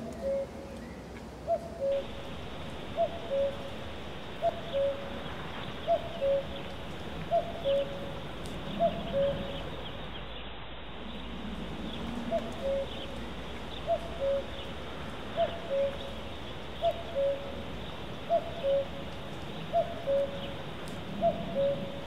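A bird calling a two-note call over and over, a higher note dropping to a lower one, about once every second and a half. The calls pause for a few seconds near the middle. Faint chirps of other birds sound behind.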